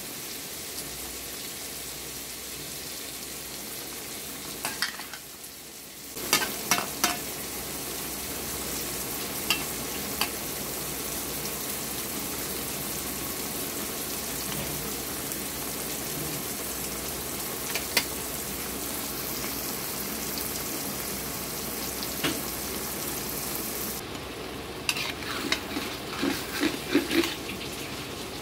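Taro stolon curry sizzling steadily in a metal wok while a flat metal spatula stirs it, scraping and clinking against the pan. The clinks come scattered through the stirring, with a quick run of them near the end.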